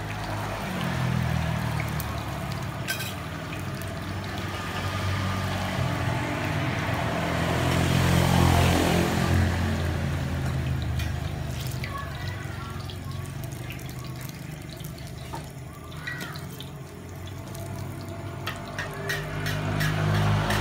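Martabak telur frying in hot oil on a flat griddle pan: a steady sizzle that swells in the middle and eases off again, with a few sharp spatula clicks. A low hum runs underneath.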